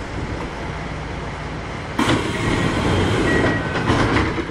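Onboard running sound of a Kintetsu 1021-series electric train rolling on the rails. About two seconds in it suddenly gets louder, with a rush of noise and a few brief high squealing tones.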